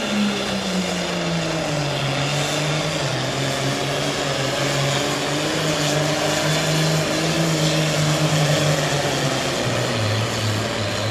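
Super farm pulling tractor's diesel engine running hard under load on a pull, its pitch dropping in steps as it slows against the sled.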